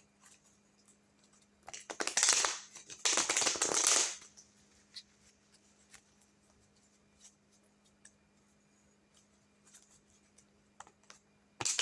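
Tarot cards being shuffled by hand: two brisk rustling bursts of about a second each a couple of seconds in, a few light clicks of card handling, then another shuffle starting near the end.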